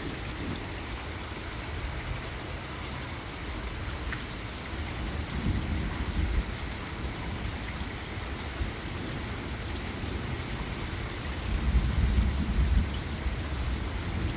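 Steady rain falling, with thunder rumbling twice: once about five seconds in, and again more loudly about eleven seconds in.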